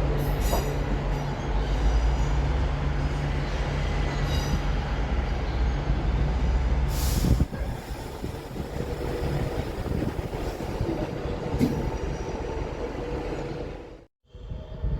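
Train passing close by: a deep, steady locomotive rumble, giving way about seven seconds in to the quieter rolling noise of the cars on the rails. The sound cuts off abruptly about a second before the end.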